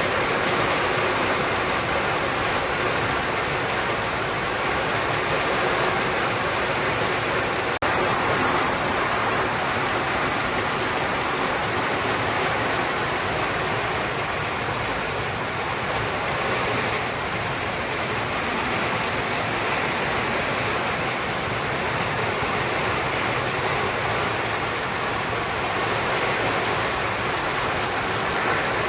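Steady rushing of water, with a brief break about eight seconds in.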